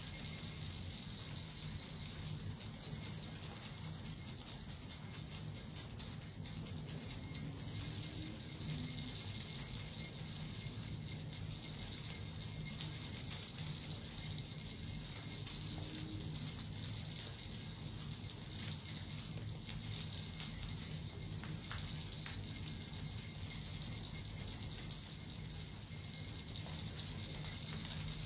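Small Japanese suzu bells shaken steadily and continuously, a dense, unbroken jingling with a bright ringing tone on top, played as a healing sound.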